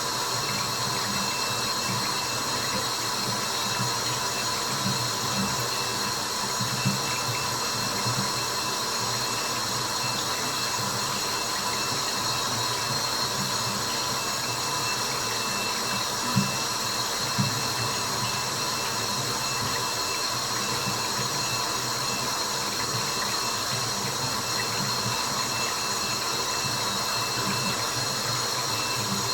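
Steady white-noise hiss with water drops falling irregularly underneath, a few louder drops about 7 and 16 seconds in.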